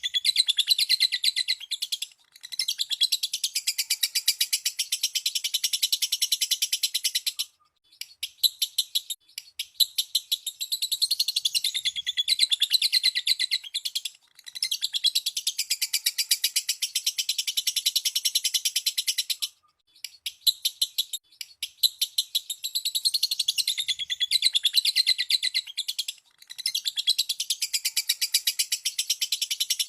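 Lovebird chattering song: a very fast run of high, shrill chirps sustained for several seconds at a time, broken by brief pauses about every five or six seconds.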